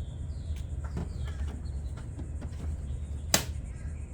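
Plastic oil jugs handled while motor oil is being added: a few faint knocks and one sharp click about three seconds in, over a steady low rumble.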